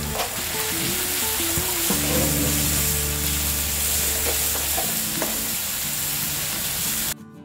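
Chopped onion, tomato and turmeric sizzling in ghee and oil in a non-stick frying pan while a wooden spatula stirs them. The sizzling cuts off abruptly near the end.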